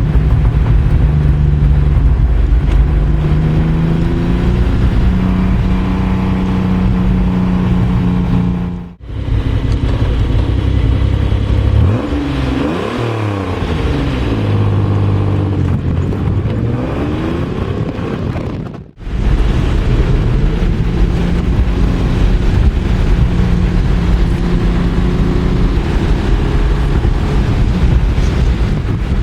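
1988 Pontiac Fiero GT's 2.8-litre V6 running through an Ocelot exhaust with the catalytic converter deleted and ported exhaust manifolds. It holds a steady note, then rises and falls in pitch about a third of the way in. The sound cuts out abruptly twice, for a moment each time.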